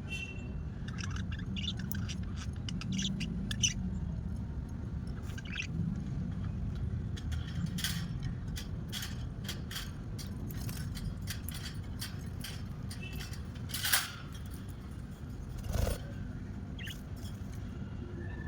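Small pet birds giving short, scattered chirps, with a few sharp clicks, over a steady low rumble.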